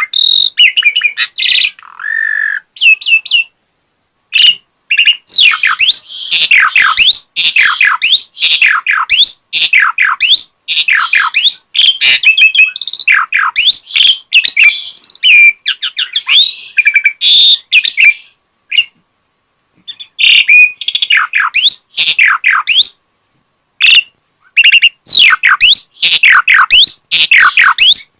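An Asian pied starling (jalak suren) sings in full voice, pouring out its repertoire of learned phrases. It is a fast, varied run of whistles, chirps and sweeping notes, broken by short pauses about four seconds in, past the middle, and near the end.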